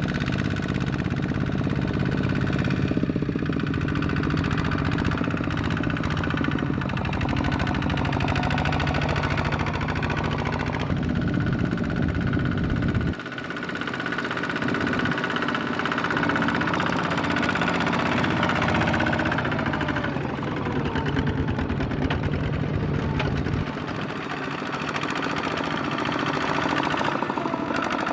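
Power tiller's single-cylinder diesel engine running with a rapid, even knocking beat. Its low rumble drops away about halfway through, then the engine keeps running.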